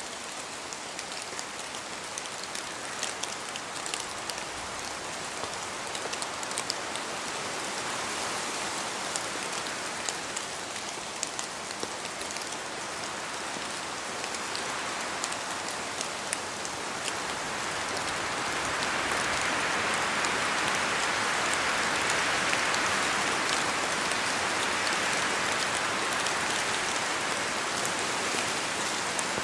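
Steady rain falling in a forest, with scattered sharp ticks of drops falling from the trees. The hiss grows louder from about 18 seconds in as a gust of wind moves through.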